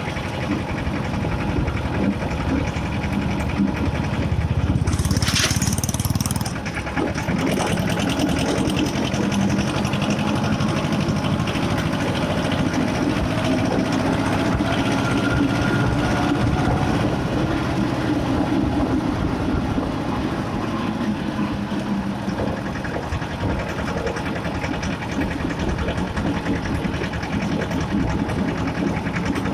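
Escort 335 tractor's three-cylinder diesel engine running steadily at road speed, with a brief hiss about five seconds in.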